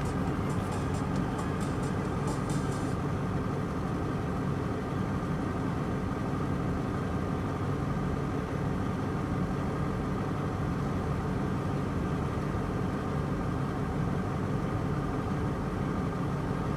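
Heavy diesel engine running steadily at a constant speed. For about the first three seconds a fast, high ticking sounds over it, then stops.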